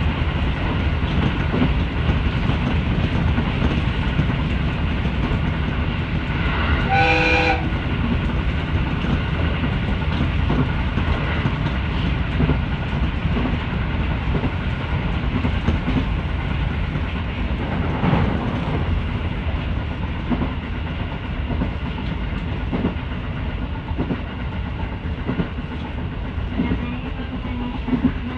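Local passenger train running along the rails, a steady rumble with wheel clatter, heard from inside the carriage. About seven seconds in, a horn sounds once, a short steady tone lasting about a second and a half.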